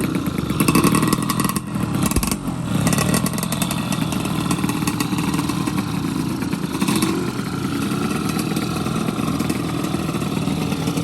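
Two-stroke underbone racing motorcycle engine running and revving.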